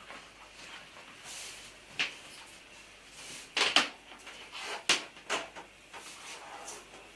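A large latex balloon handled while being drawn on with an oil-based marker: scattered rubs, squeaks and knocks, the sharpest a few seconds in.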